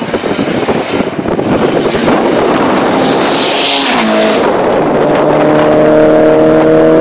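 Car engine under hard acceleration with a loud rush of wind noise. About halfway through there is a hiss and a brief drop in pitch, like a gear change. The engine then pulls hard again, its tone climbing steadily.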